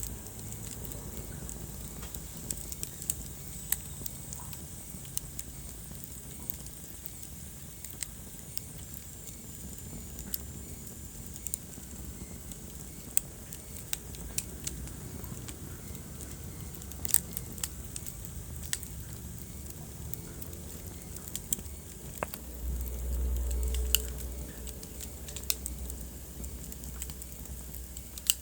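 Wood fire crackling in a fireplace, with irregular sharp pops over a steady low rush of flame. A deeper rumble swells briefly a few seconds before the end.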